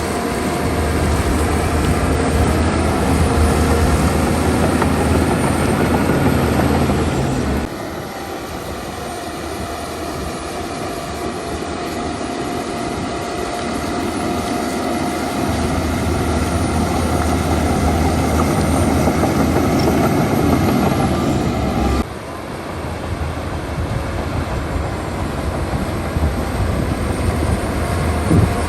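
Heavy earthmoving machines' diesel engines running, a loud steady drone with a strong low rumble. The sound changes abruptly twice, about eight seconds in and again about twenty-two seconds in.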